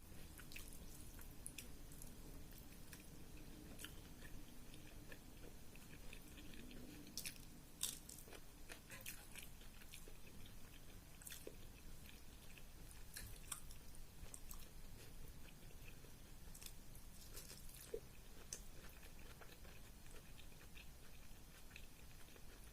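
Quiet, close-miked chewing and wet mouth sounds of someone eating rice with curries: irregular soft smacks and clicks throughout.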